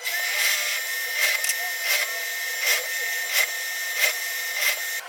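A woodworking power tool running on wood, with a steady whine and a regular surge about every 0.7 s. It cuts off just before the end.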